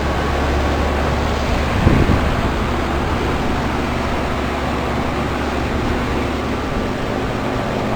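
2000 Lennox 4-ton heat pump outdoor unit running in heat mode: the condenser fan makes most of the steady noise, with the compressor quiet beneath it. A short low thump about two seconds in.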